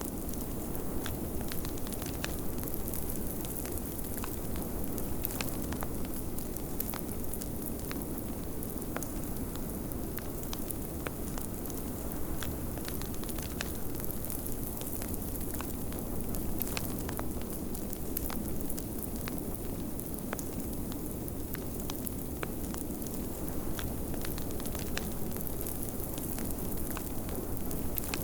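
Fireplace wood fire crackling, with frequent sharp irregular pops over a steady low rush of snowstorm wind.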